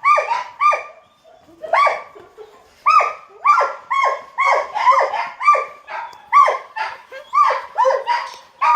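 A dog barking over and over in high-pitched yaps, about two a second, each yap dropping in pitch, with a short break about a second in.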